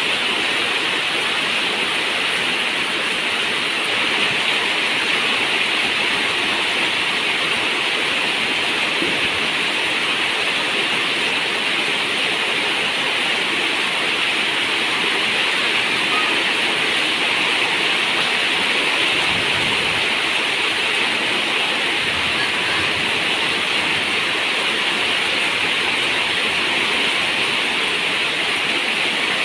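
Heavy rain falling steadily on a zinc roof, an even, unbroken hiss.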